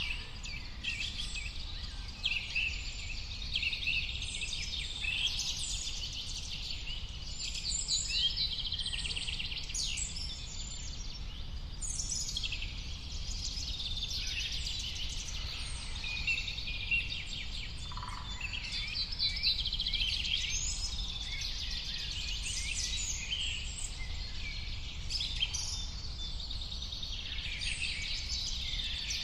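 A dense chorus of many birds chirping and trilling at once, continuous and overlapping, over a low steady rumble.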